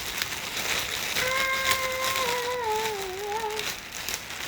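Plastic wrapping and cloth rustling and crinkling as a new mukena is handled, with a child humming one long wavering note from about a second in.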